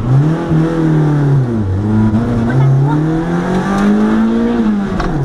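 Competition car's engine heard from inside the cockpit, pulling away from the start line and accelerating hard, its pitch climbing, dropping at an upshift about a second and a half in, then climbing again until another shift near the end.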